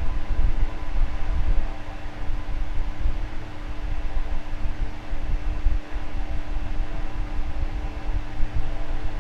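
Electric fan running steadily: a constant motor hum over a hiss of moving air, with an uneven low rumble from the airflow.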